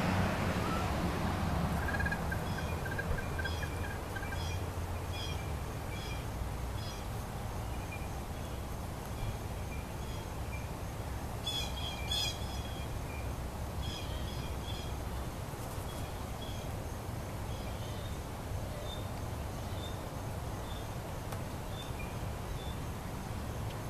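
Bird calls: a long run of short, high chirps, about two a second, with a brief louder cluster of calls about halfway through.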